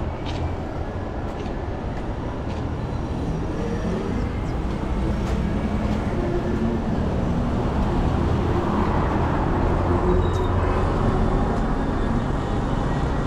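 Steady low rumble of a large vehicle on a city street, slowly growing louder, with a few faint clicks.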